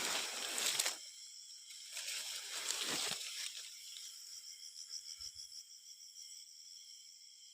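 Two bursts of rustling leaves and brush, each about a second long, then from about four seconds in a steady, evenly pulsing high insect trill, like crickets.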